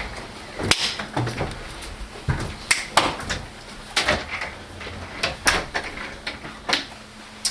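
A dozen or so irregularly spaced knocks and clicks, with a faint steady low hum under them.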